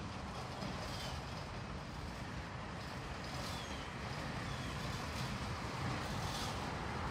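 Freight train of boxcars rolling slowly on the rails as a locomotive at the far end shoves them, a steady low rumble.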